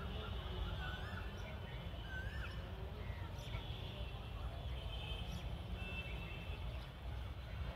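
Birds calling and chirping, with several short wavering calls that rise and fall in the first few seconds and thin high chirps later on, over a steady low rumble.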